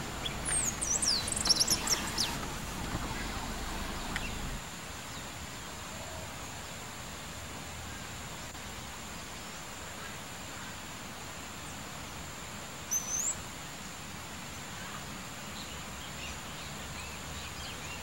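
Wild birds chirping outdoors: a quick run of high chirps in the first couple of seconds and one more short call about 13 seconds in, over steady outdoor background noise with a faint constant high tone. A low rumble underneath stops about four and a half seconds in.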